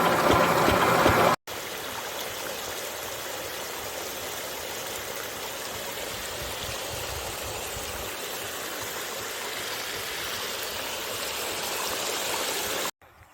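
An 8 HP engine running with a quick, regular firing beat cuts off abruptly about a second in. A steady rush of flowing water follows.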